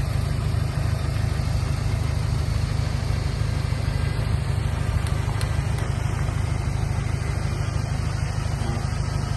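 Heavy diesel engine idling steadily with a low, even rumble.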